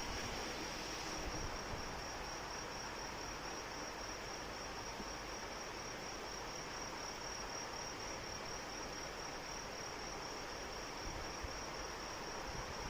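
Steady rain hiss with an insect trilling continuously in a high, evenly pulsing tone.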